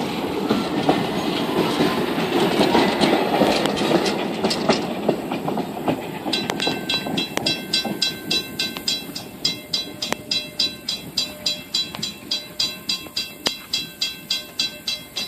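Passenger coaches of a Strasburg Rail Road train rolling past over a grade crossing, with wheels clacking on the rail joints. The sound fades away over the first six seconds. A railroad crossing bell then rings steadily at about two strikes a second while the gates rise.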